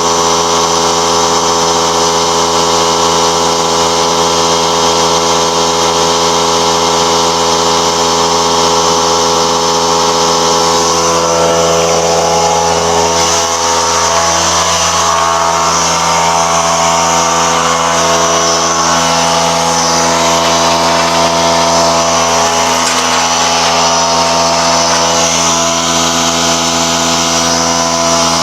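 A motor-driven machine running steadily with a constant pitched hum and some hiss, its tone shifting slightly partway through.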